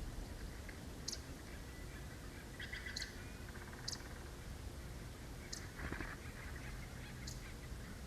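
Small forest birds calling: short, high, thin notes repeated every second or two. A burst of chatter comes about three seconds in, and a short, louder call about six seconds in, over a steady low background rumble.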